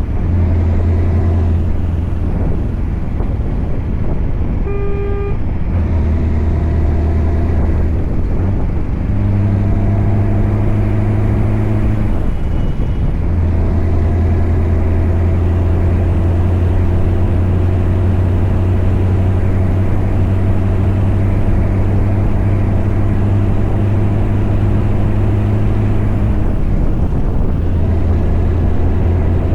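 Scania V8 diesel truck engine running under load, a strong low drone that drops away and comes back several times, in the way gear changes do. A brief high beep sounds about five seconds in.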